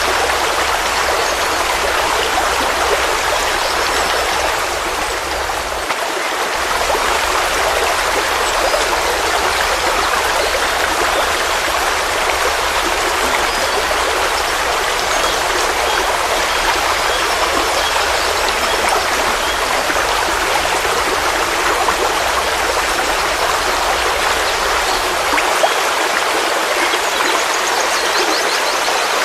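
Forest stream flowing steadily: a constant, even rush of running water.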